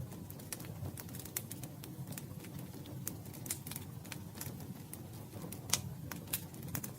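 Campfire burning: wood crackling with irregular sharp pops and snaps over a low steady rumble of the flames, one pop louder than the rest a little before the end.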